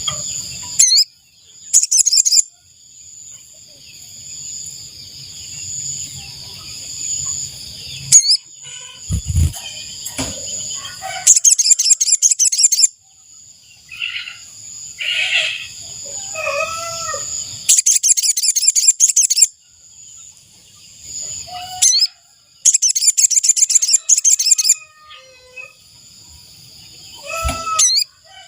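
Sogon bird (sogok ontong) calling in loud bursts of rapid, high, chattering trills, each one to two seconds long and coming every few seconds, a bird-call recording of the kind played as a trapping lure. A steady high insect drone and softer calls of other birds fill the gaps.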